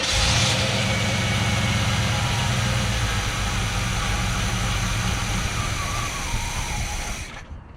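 Freshly rebuilt Pontiac Grand Prix engine on its first start, catching and running roughly for about seven seconds, then cutting out suddenly. The owner suspects a carburetor problem.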